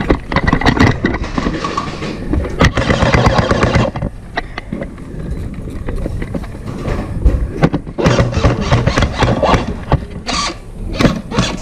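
Airsoft guns firing several rapid bursts of sharp clicks, with short pauses between the bursts.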